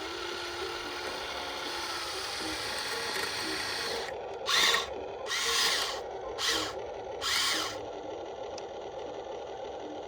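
Small electric gear motors of an RC construction model whirring in four short bursts, each under a second long, about a second apart, over background music.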